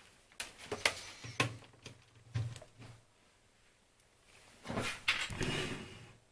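Small plastic phone parts being handled and fitted together during reassembly: a run of light clicks and knocks, then a longer scraping rustle about five seconds in.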